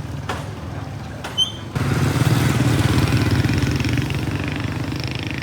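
Motorbike engine running while riding, with a brief high squeak just after a second in. The engine grows louder about two seconds in and stays that way.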